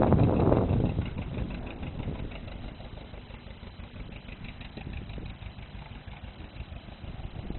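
John Deere 830 two-cylinder diesel tractor engine idling with a steady low putter. It is loud for about the first second, then quieter and even.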